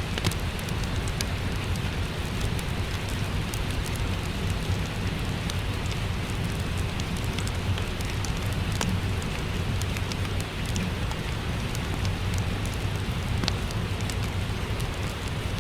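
Steady rain with a low, even rumble underneath and the scattered sharp crackles of a wood fire burning in a fireplace.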